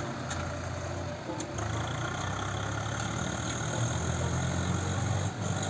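Tractor diesel engine running steadily with a low, even drone.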